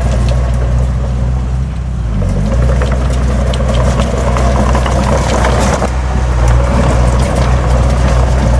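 Large diesel engine of heavy earthmoving equipment running under load, its pitch dipping briefly about two seconds in, with steady clanking and rattling. Around the middle there is a brief rush of sliding soil or stone.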